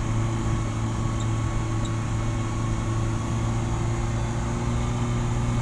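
Vehicle engine running steadily, a low drone holding one pitch, while pulling up a steep uphill road.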